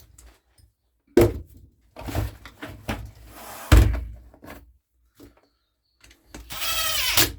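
Knocks and clatter of hand tools and small strimmer parts being handled during carburettor reassembly, with separate sharp knocks, the loudest a little under four seconds in, and a brief rasping sound near the end.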